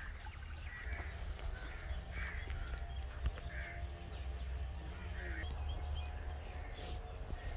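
A bird calling repeatedly, one short call about every second and a half, over a steady low rumble.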